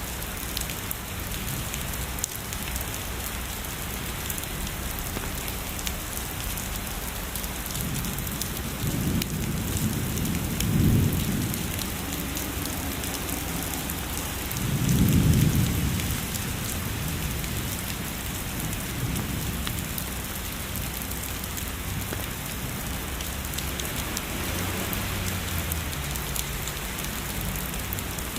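Steady heavy rainfall with two low rumbles of thunder in the distance, the first about a third of the way in and a louder one just past the middle.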